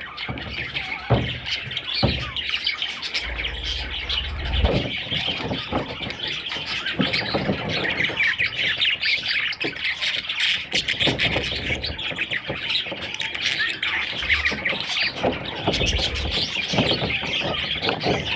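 Budgerigars chattering and squawking without a break, with a few low knocks in the first seconds.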